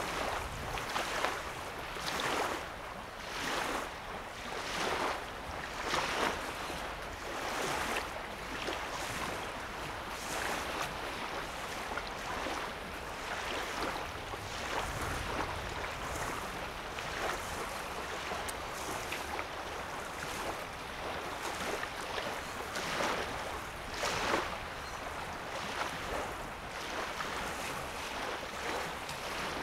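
Small wavelets lapping at a lake's sandy shoreline, a soft wash of water every second or two.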